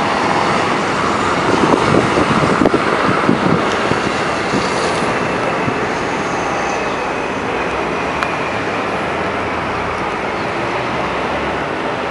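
Electric commuter train passing at speed, its wheels rumbling and clattering on the rails. The noise eases a little after the last car goes by, about halfway through.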